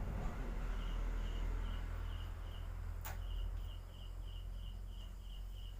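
Night insects chirping in a steady, evenly spaced high pulse, a few chirps a second, over a low rumble. There is a single sharp click about three seconds in.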